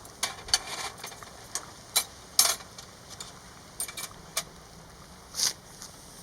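Irregular light clinks and short scrapes of metal utensils, about a dozen over the few seconds, with two longer scrapes partway through and near the end.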